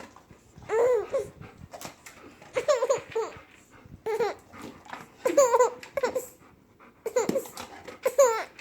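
A person laughing in repeated high-pitched bursts, about one a second.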